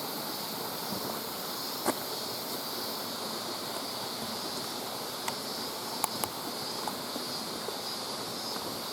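Mountain stream running, a steady rush of water. A few sharp clicks stand out, twice in quick succession about six seconds in: the rattle of the old video camera's loose monitor.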